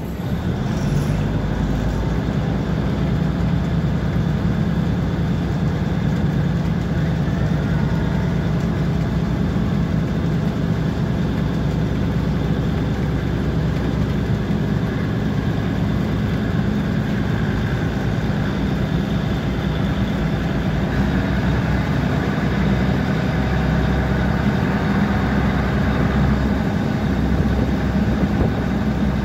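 Diesel train engine running steadily with a low, even drone.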